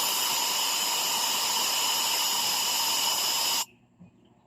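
Compressed air blowing steadily into the exhaust port of a freshly lapped cylinder head, a loud hiss with a faint whistle in it that cuts off suddenly about three and a half seconds in. It is a leak test of the exhaust valve with gasoline in the combustion chamber; no bubbles means the valve seals.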